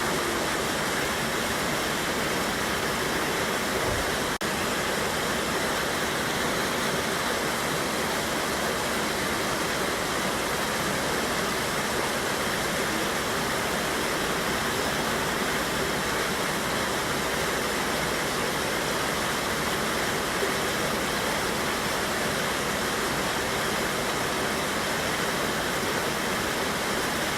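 River water pouring over a waterfall, a steady, unbroken rush of water.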